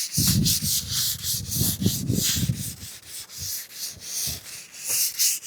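Light hand-sanding of a painted door edge with sandpaper: repeated back-and-forth strokes, a few a second, knocking off whiskers and dust nibs before the final top coat.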